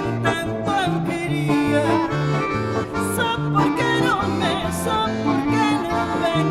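Live folk band playing an instrumental passage: a wavering lead melody over changing bass notes, with no singing.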